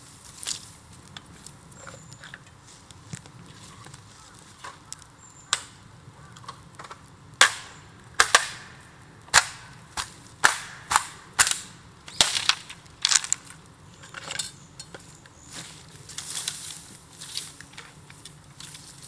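Burning bamboo on a bonfire, crackling and popping sharply as the sealed hollow segments of the culms burst in the heat. Scattered pops give way to a quick run of about a dozen loud bangs in the middle.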